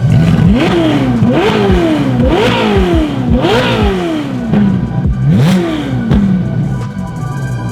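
Ferrari 458's V8 blipped through a titanium iPE cat-back exhaust, about five quick revs that each shoot up and fall back to idle, with the last one after a short pause.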